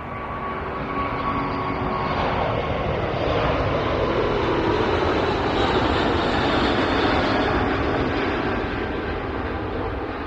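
Jet airliner passing overhead: its engine roar swells to a peak about halfway through, sweeps down in pitch and then fades, with a steady engine whine near the start.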